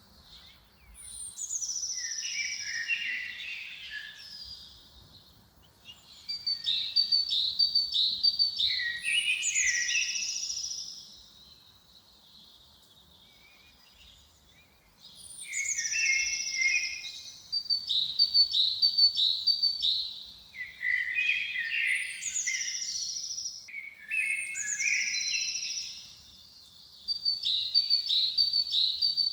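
A songbird singing the same short song over and over. Each phrase is a run of quick high notes followed by a lower jumble, and there is a pause of a few seconds about halfway through.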